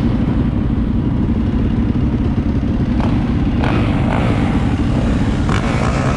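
Dirt bike engine running steadily close to the microphone, with no revving.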